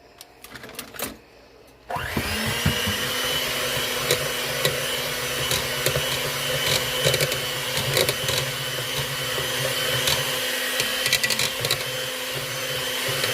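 Electric mixer switching on about two seconds in and running steadily, beating eggs into creamed butter for cake batter: a constant motor whine with scattered clicks.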